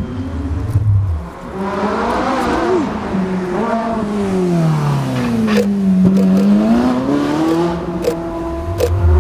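Ferrari 458 Italia's 4.5-litre V8 through an aftermarket F1 exhaust, its pitch climbing, falling away, then rising and holding. Several sharp pops come through in the second half.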